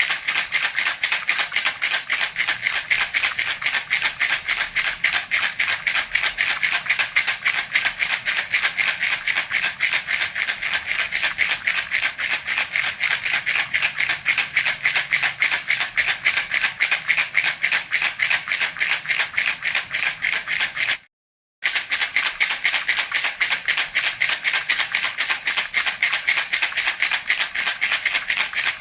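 Baby rattle (jhunjhuna) shaken rapidly and evenly, a continuous bright rattling of beads inside a hollow toy. It cuts out for about half a second about two-thirds of the way through, then carries on.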